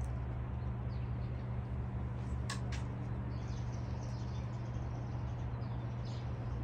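Birds chirping in short calls over a steady low hum, with two sharp clicks about two and a half seconds in.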